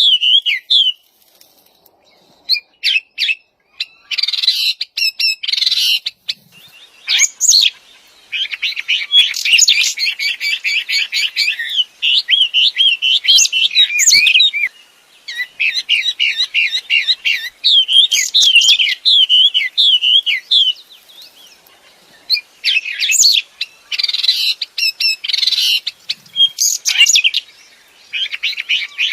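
Wambi songbird singing loud, varied phrases of rapid trills and warbling whistles, in several long runs broken by short pauses.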